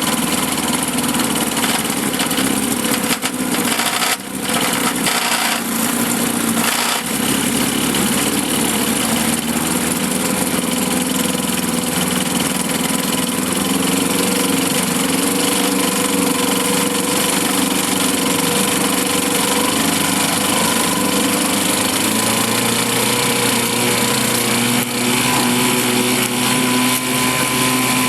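1954 Johnson CD-10 5.5 hp two-stroke twin outboard motor running steadily in a test barrel, with brief dips in level about three, four and seven seconds in.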